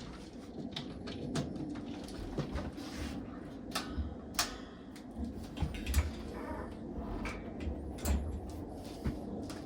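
Irregular clicks, taps and low handling knocks from a vintage box fan's switch and power cord being worked after the fan cut out. The owner puts the fault down to a bad plug on the cord.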